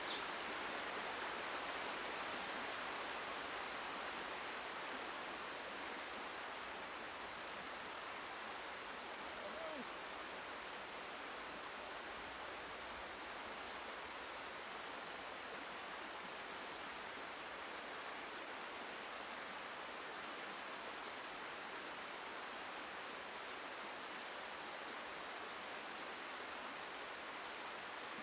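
Steady rushing of flowing river water, an even, unchanging noise.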